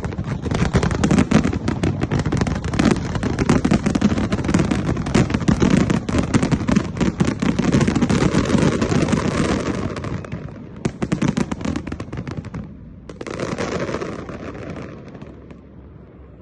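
Fireworks display going off in a dense, rapid barrage of bangs and crackles for about ten seconds. The crackle then thins out, breaks off briefly, comes back in one last burst and dies away near the end.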